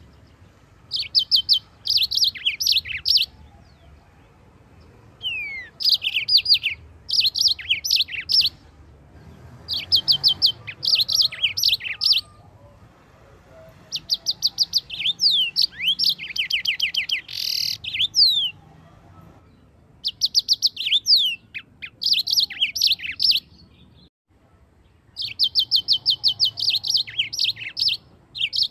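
A yellow-fronted canary (Mozambique canary) singing continuously. Its song comes in short, quick phrases of fast repeated chirps and down-slurred whistles, with brief pauses between phrases.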